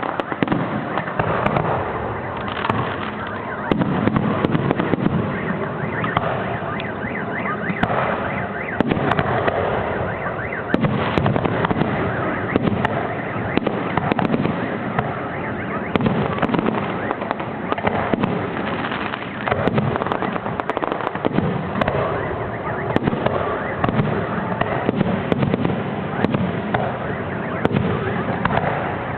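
Fireworks display: a continuous barrage of overlapping bangs and crackling bursts.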